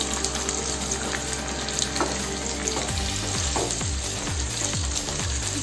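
Green chillies sizzling in hot oil in a nonstick pan, with the steady hiss of frying and occasional light strokes as a wooden spatula stirs them.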